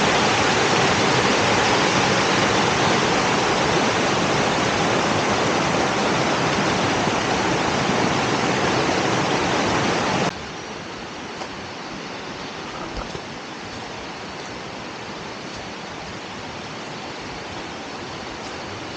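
Waterfall rushing, a steady loud wash of falling water that drops suddenly to a quieter, more distant rush about ten seconds in.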